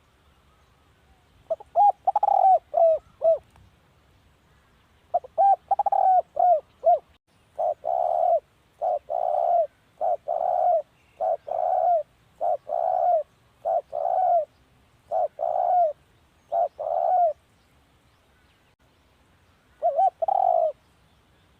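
Spotted dove cooing: two phrases of quick, short coos, then a long, evenly paced run of about a dozen fuller coos, a little under one a second, and one more short phrase near the end.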